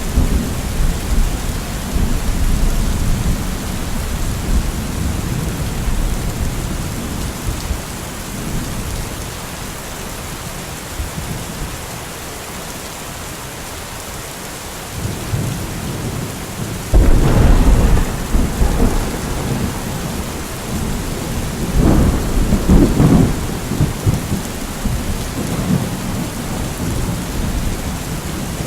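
Steady heavy rain with rolling thunder: low rumbles that die down midway, then a sudden loud thunderclap a little past halfway and another double clap a few seconds later, each trailing into rumbling.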